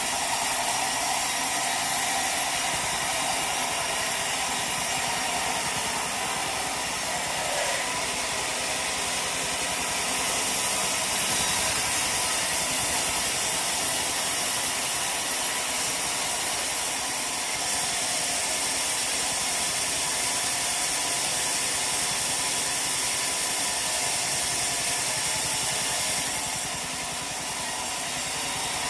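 Sawmill machinery running with a steady, dense hiss. It gets slightly louder about a third of the way in and dips briefly near the end.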